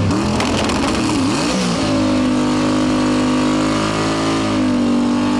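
Drag race car engine revved in quick blips, then held at high revs for several seconds with a brief dip.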